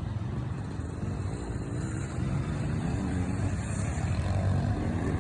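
Classic scramble motorcycles' engines running during a race, a steady low engine noise with faint pitch rising and falling as the engines rev, a little louder after about two seconds.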